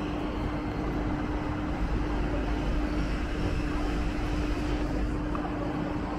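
Train at a station platform: a steady low rumble with a constant mid-pitched hum.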